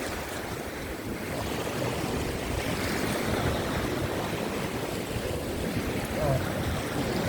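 Rough sea surf surging and washing over coastal rocks, with strong wind buffeting the microphone.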